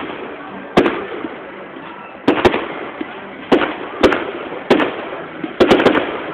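Fireworks going off at a display: a run of sharp bangs, about one a second, some in quick pairs and a rapid cluster near the end, each trailing off with echo and crackle.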